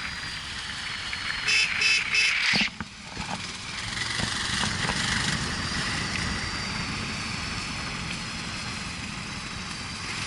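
Motorcycle riding: the engine runs under steady wind and road noise. About a second and a half in there is a quick run of short pitched beeps, after which the sound changes abruptly to a lower, steadier rumble.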